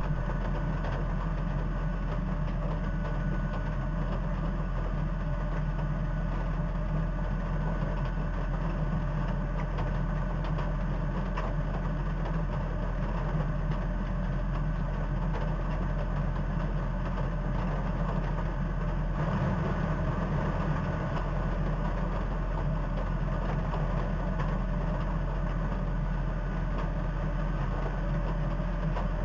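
A steady low mechanical hum that runs unchanged, with a constant low drone underneath.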